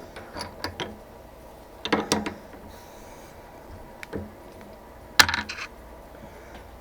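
Metal tools and parts clinking and knocking as they are handled on a metalworking bench, in a few separate strikes with the sharpest about five seconds in, over a faint steady hum.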